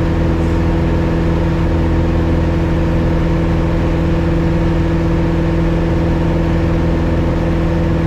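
Piper Cherokee 180's four-cylinder Lycoming O-360 engine and propeller at full power in the climb, a steady drone with no change in pitch. The engine is newly installed and being run hard for break-in.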